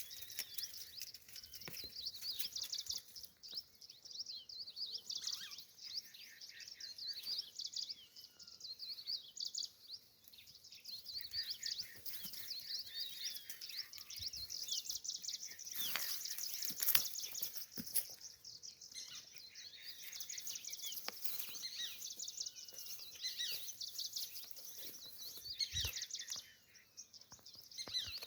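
Birds chirping and singing, many short overlapping calls at once, with a few sharp clicks or knocks.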